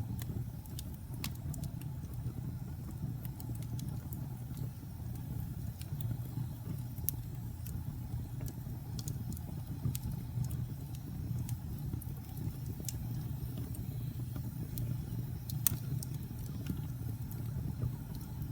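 Wood logs burning in a fireplace: a steady low rumble of flame with scattered sharp crackles and pops, one louder pop near the end.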